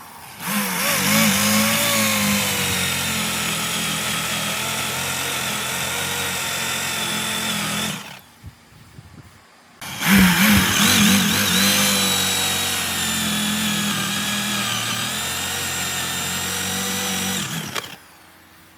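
An electric power tool running in two long runs of about seven and eight seconds with a short stop between them, its pitch dipping briefly as each run starts and then holding steady with a high whine.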